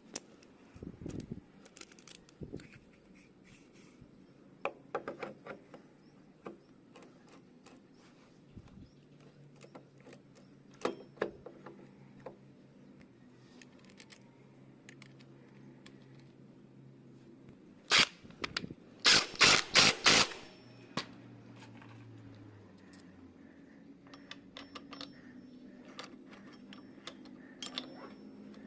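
Metal hand tools and engine parts clinking, clicking and scraping during motorcycle engine assembly, with a short burst of rapid metallic clattering about two-thirds of the way through.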